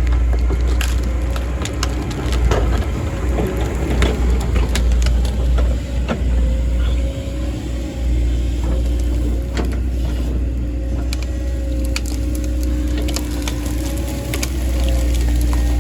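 Heavy diesel engine running steadily under load while wood cracks and splinters again and again, with many sharp snaps of breaking branches or timber.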